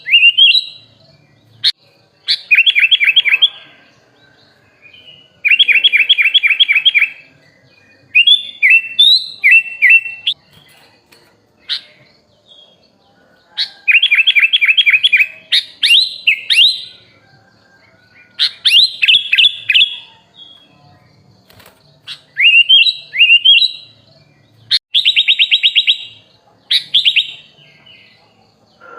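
Sooty-headed bulbul (kutilang) singing short, loud phrases every couple of seconds: rapid chattering trills alternate with quick rising whistles. This is a rich 'isian' song, mixed with phrases learned from other birds.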